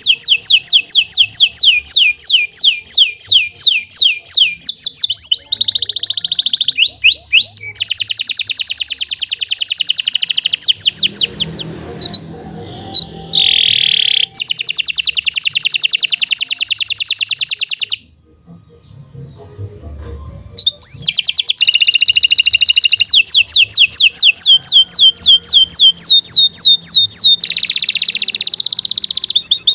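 Domestic canary singing a long song made of fast trills, each a run of rapid repeated falling notes, switching from one trill to another, with two short breaks about twelve and eighteen seconds in.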